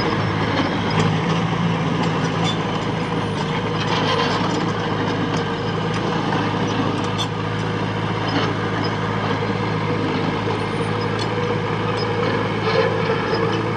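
Heavy diesel machine engine running steadily under work, with scattered metallic clanks and rattles throughout.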